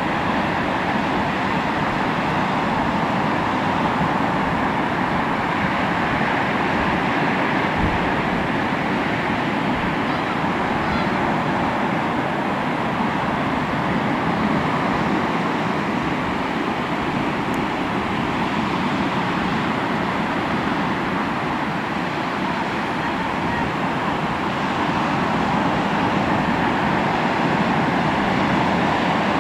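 Sea waves washing onto the shore in a steady, continuous rush of surf that swells and eases a little.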